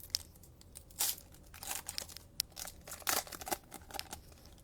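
A plastic trading-card pack wrapper being torn open and crinkled, in short, irregular crackles and rustles.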